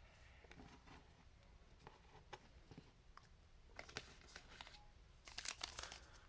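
Trading cards and a pack wrapper handled quietly: scattered faint clicks and rustles, with a louder stretch of crinkling about five seconds in.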